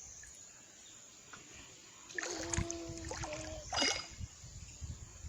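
River water flowing steadily and softly. About two seconds in, a short held vocal note, typical of a small child's hum or call, sounds over it, followed by a brief noisy burst.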